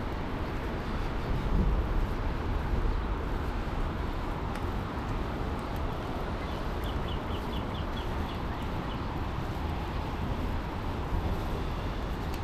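Steady low rushing roar of water. About seven seconds in, a bird sings a quick run of repeated high chirps over it.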